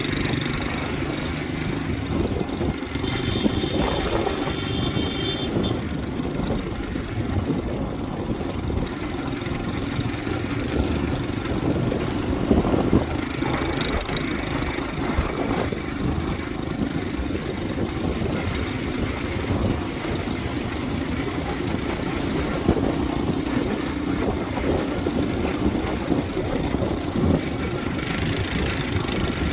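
Motorbike running steadily while being ridden, engine and road noise blended into a constant loud rush. About three seconds in there is a brief, thin high tone.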